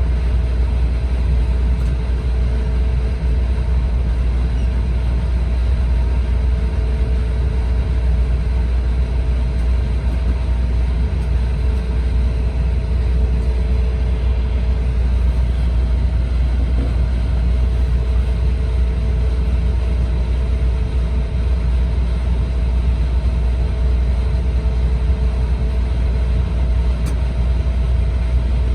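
Steady running noise inside the cabin of an E4 series double-decker Shinkansen travelling at speed: a heavy, even low rumble with faint steady whining tones above it.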